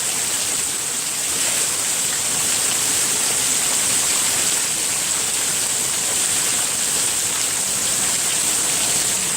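Heavy rain pouring down, an even, steady hiss with no thunder.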